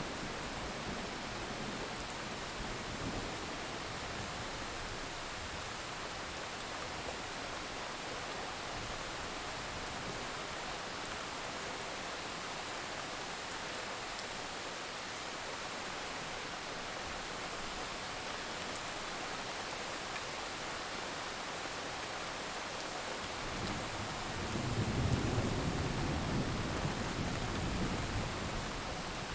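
Steady heavy rain hissing, with a low roll of thunder swelling about four-fifths of the way through and fading out near the end.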